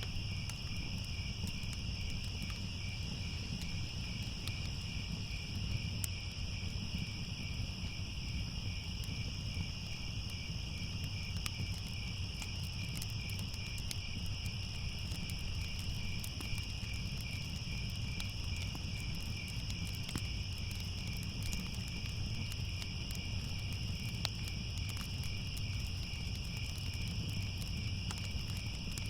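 A steady chorus of night insects chirping in a continuous, slightly pulsing trill. Underneath are a low rumble and scattered faint crackles of a fire.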